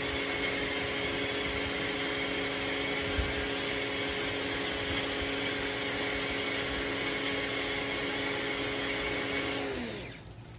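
VEVOR electric pressure washer running steadily, its motor and pump giving a steady hum with the hiss of the spray, applying soap from the detergent bottle. Near the end the motor winds down, its pitch falling as the trigger is let go.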